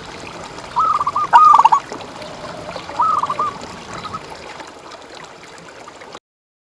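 Zebra dove (perkutut) cooing: a run of quick rolling, looping notes about a second in and a shorter run around three seconds, over a steady trickle of water. The sound cuts off suddenly near the end.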